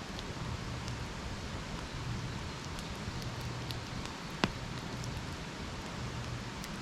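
Wood campfire burning, a steady hiss with scattered crackles and one sharp pop about four and a half seconds in.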